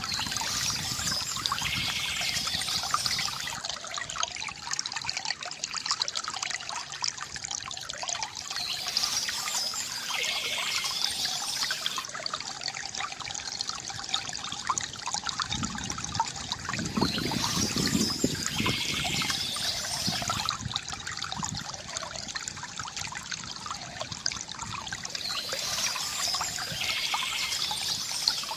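Water from a bamboo fountain trickling and gurgling steadily, with a fuller, deeper gurgle a little past the middle. Birds chirp in short spells about every eight or nine seconds.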